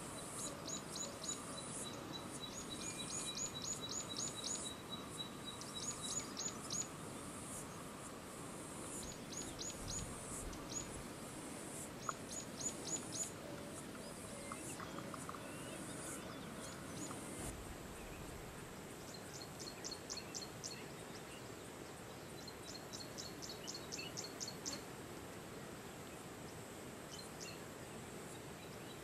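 Outdoor ambience: a bird repeats quick runs of short, high chirps every few seconds, over a steady high hiss that cuts out about two-thirds of the way through.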